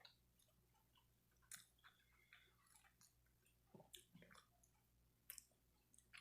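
Faint chewing and mouth sounds of someone eating, with scattered small clicks.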